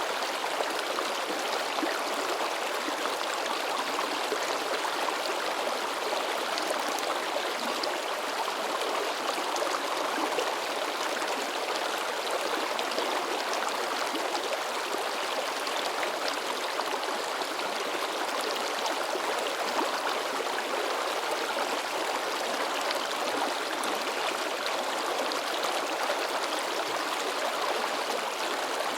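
Babbling stream: shallow water splashing and gurgling over rocks, a steady rushing wash with no break.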